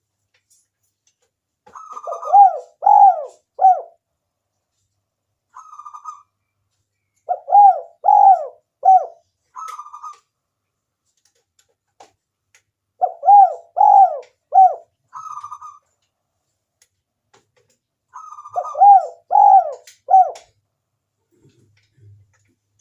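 Spotted dove cooing its song four times, about five seconds apart: each phrase is a short higher note followed by three arched, lower coos, with a lone higher note between phrases. This is a lure call to draw wild doves into answering.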